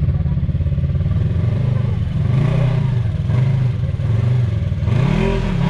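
Side-by-side UTV engine running hard and revving up and down, with the pitch swinging up and back down in arcs near the end.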